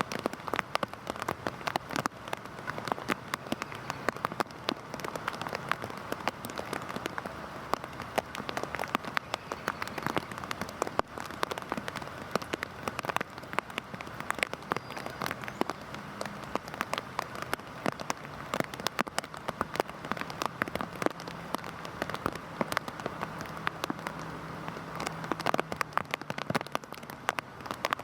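Heavy rain falling steadily: a continuous hiss dense with sharp, close individual drop hits.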